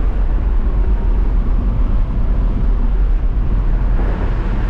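1984 Chevy C20 three-quarter-ton pickup driving at speed, held at about all it has in a long third gear. Its engine and road noise make a steady, loud, low rumble.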